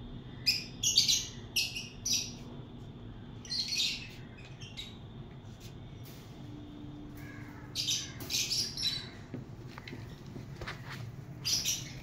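Birds chirping and squawking in short, high-pitched calls. The calls come in clusters in the first few seconds, again about eight seconds in and once more near the end, over a steady low hum.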